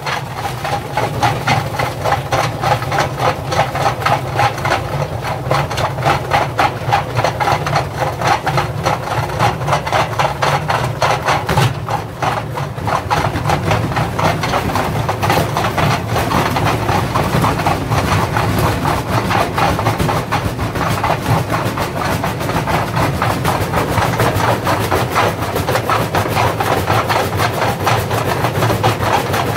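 Indesit washing machine running with bricks in its drum: the drum and motor hum steadily under rapid, continuous knocking and clattering as the bricks are thrown about.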